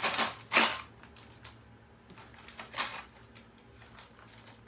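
Loose screws and bits of plastic being handled: two short rattling scrapes in the first second, another near the three-second mark, and light clicks in between.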